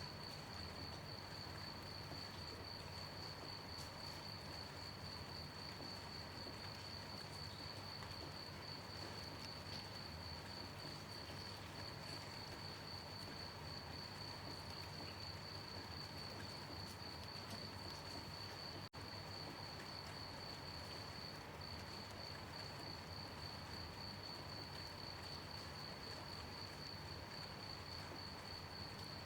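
Crickets chirping in a steady, fast-pulsed high trill over a soft, even hiss of light night rain. The sound cuts out for an instant about two-thirds of the way through.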